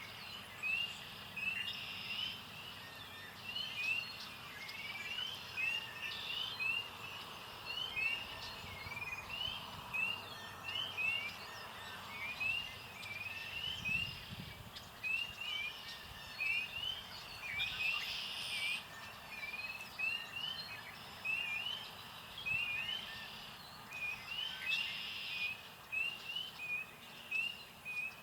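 A songbird singing a long, steady run of short slurred whistled notes, about one or two a second, over outdoor background noise with a soft low thump about halfway through.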